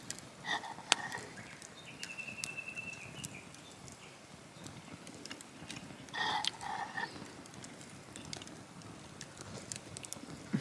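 Wood fire crackling, with irregular sharp pops and snaps throughout.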